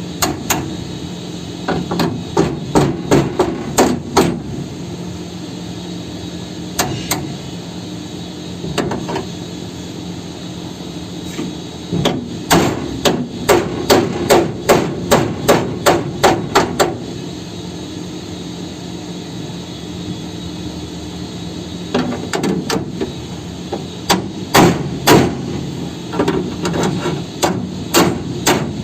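Hammer blows on a vehicle's rear chassis extension as it is worked during repair. The blows come in runs of quick strikes, up to about four a second, with pauses between them, over a steady low hum.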